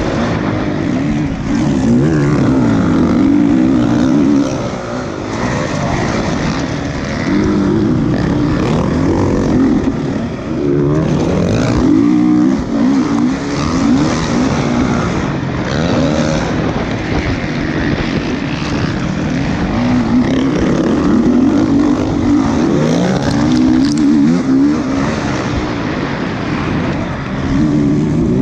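Motocross motorcycle engines revving up and down over and over, several bikes overlapping as they ride the track.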